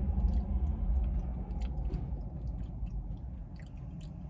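A person chewing a spoonful of a KFC Famous Bowl (soft mashed potatoes, chicken, corn and gravy), with scattered short wet mouth clicks and smacks. A steady low hum runs underneath.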